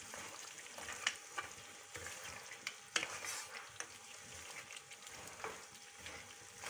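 Mutton karahi with beaten yogurt and tomatoes sizzling on high heat in a non-stick wok while the liquid cooks off. It is stirred with a wooden spatula that scrapes and gives a few sharp knocks against the pan.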